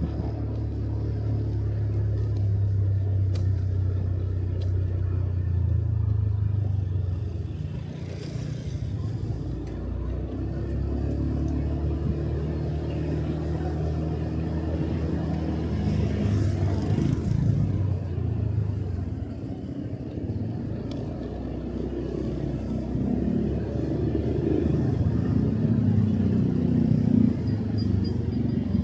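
Motorcycle engine running while being ridden, its pitch rising and falling with the throttle, with two brief rushes of noise partway through.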